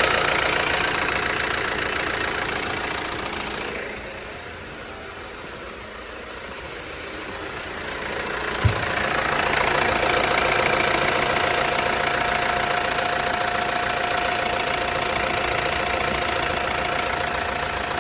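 Car engine running. It is louder at first, dies down about four seconds in, then builds back up over a few seconds and runs steadily with a thin whine. There is one sharp click just before it picks up.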